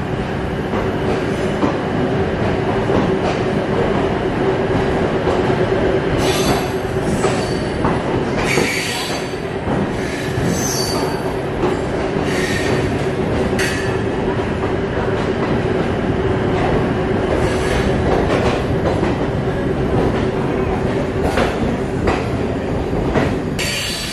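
Passenger train rolling slowly along a station platform, heard from on board: a steady rumble and hum, with the wheels squealing on the rails several times, about six to fourteen seconds in and again near the end.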